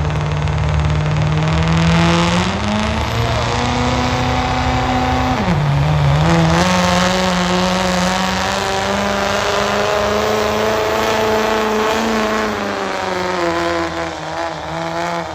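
Diesel pickup truck engine run hard under load while pulling a sled. Its pitch climbs a couple of seconds in, dips sharply and recovers about a third of the way through, holds high and steady, and eases down near the end.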